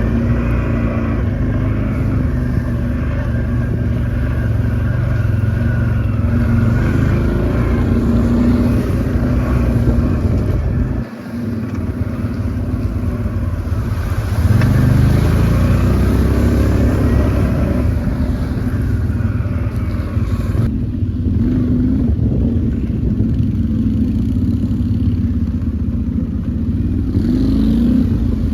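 Quad bike (ATV) engine running while being ridden, its pitch rising and falling with the throttle, with a brief drop in level about eleven seconds in.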